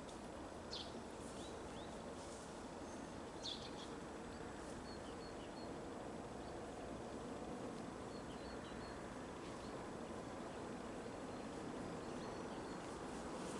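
Small birds chirping in short, scattered high calls over a steady outdoor background noise.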